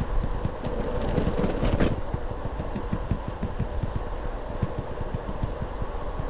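Wind rush and tyre rumble from an e-bike on the move, with a faint steady hum underneath and uneven low buffeting. A single sharp knock comes about two seconds in.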